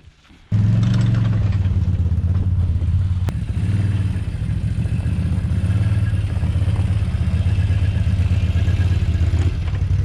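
ATV engine running steadily, heard close up, coming in suddenly about half a second in.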